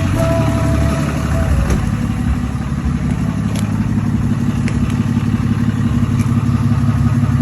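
Pickup truck engine idling steadily through a newly fitted exhaust, with music ending in the first two seconds.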